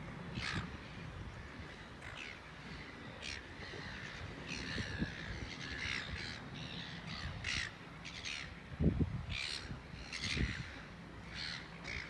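Birds calling: a string of short, harsh calls that fall in pitch, one after another, over a low rumble. There are two low thumps about nine and ten and a half seconds in.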